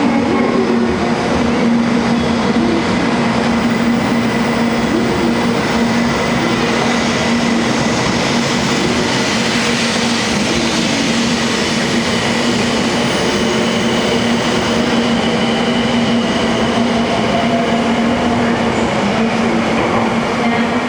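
Train running steadily, an even rumble with a constant low hum and faint steady whines above it.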